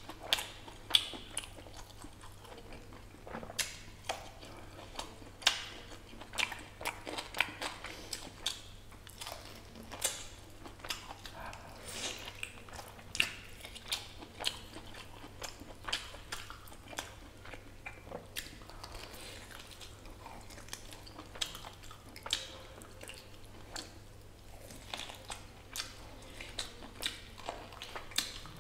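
Close-miked wet chewing and lip-smacking as mutton curry and bone marrow pieces are eaten by hand, with irregular sharp mouth clicks several times a second.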